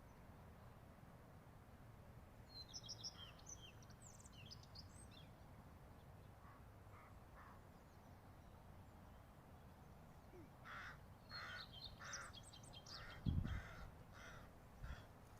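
Wild birds calling faintly over a low steady background. A small bird's high twittering comes a few seconds in, then from about ten seconds in a run of short harsh calls, about two a second, mixed with more twittering. A single low thump comes near the end.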